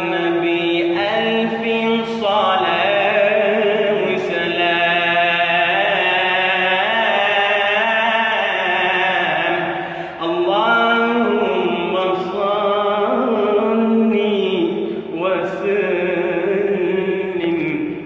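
A male Egyptian religious chanter singing an ibtihal in long, ornamented melismatic phrases, with brief breaks for breath about ten and fifteen seconds in.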